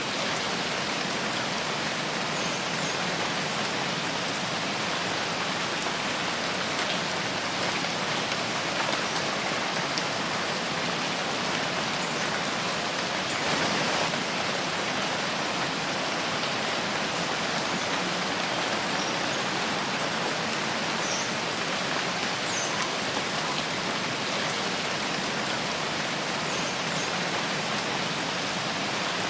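Steady rain falling in a forest, an even hiss of drops on leaves and ground with scattered individual drips; it swells briefly about 14 seconds in.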